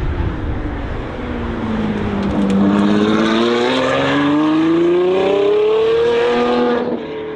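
Sports car engine, its pitch sinking at first, then climbing steadily for about four seconds as the car accelerates hard. The level drops suddenly near the end.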